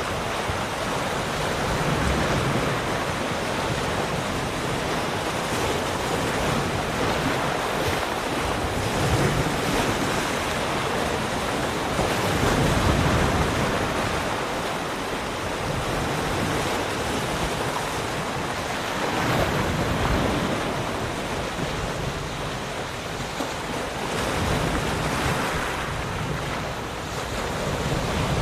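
Ocean waves breaking and washing on a shore, a continuous rushing surf that swells and eases every few seconds, with some wind noise.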